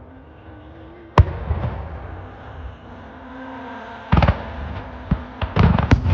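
Fireworks shells bursting: a single sharp bang about a second in with a long rumbling echo after it, then a cluster of loud bangs from about four seconds in and more near the end.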